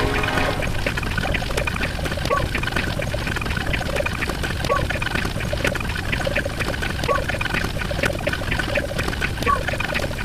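Steady noise like water pouring or trickling, with a short high blip repeating about every two and a half seconds.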